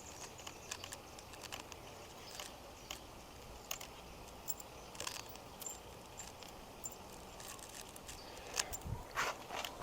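Scattered light clicks and taps of metal bike-rack parts being handled, with a few louder knocks near the end.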